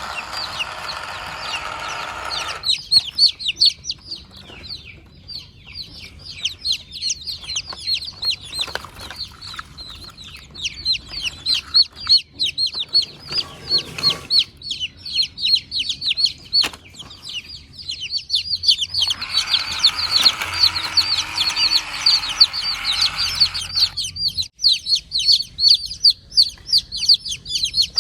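Many small birds cheeping in a dense, rapid, overlapping chatter of high, falling chirps. A steady rushing noise sits under it at the start and again about two-thirds of the way through.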